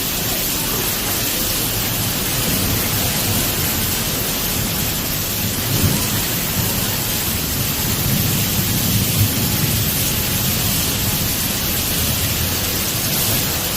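Heavy rain and wind from a severe thunderstorm, a steady loud hiss, with low rumbling swells about six seconds in and again around eight to ten seconds in.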